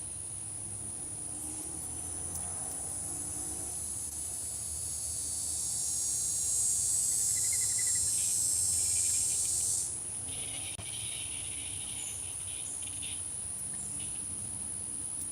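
Outdoor insect chorus: a steady, very high-pitched trilling drone. A louder, wider buzz joins it, swells from about four seconds in and stops abruptly around ten seconds.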